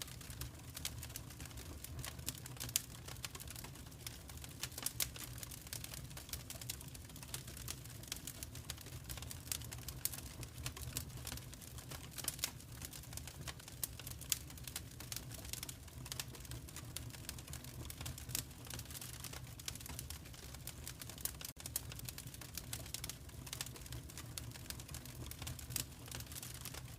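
Fireplace fire crackling: frequent small, irregular pops and snaps over a steady low rumble.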